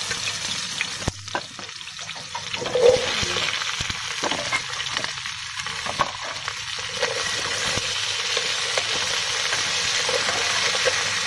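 Green beans and scallions stir-frying in hot oil in an aluminium pot: steady sizzling, stirred with chopsticks. The sizzle grows louder about three seconds in.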